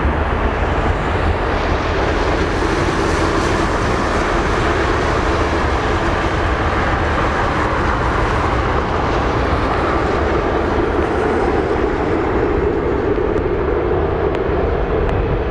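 Jet airliner engines running near the runway: a steady, loud noise with a deep rumble underneath.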